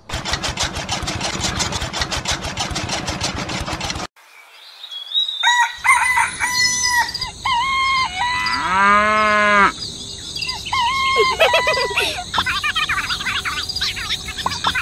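Small electric motor of a miniature chaff cutter running with fast, even clicking for about four seconds, then cutting off suddenly. After a short pause, hens cluck and a rooster crows once, with small birds chirping behind.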